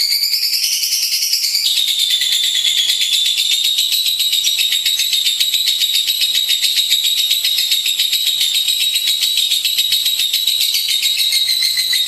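Lovebird singing one long, unbroken, very fast high-pitched chattering trill. Its pitch steps down slightly about two seconds in, then holds steady.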